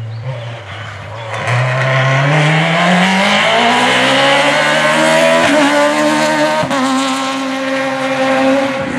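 Peugeot 306 Maxi rally car's four-cylinder engine under hard acceleration: its pitch dips at first, then climbs steadily for several seconds, breaks briefly at two quick gearshifts, and holds at high revs near the end.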